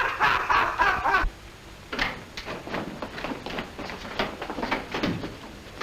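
A man whooping excitedly for about a second, then a string of irregular knocks and clatter.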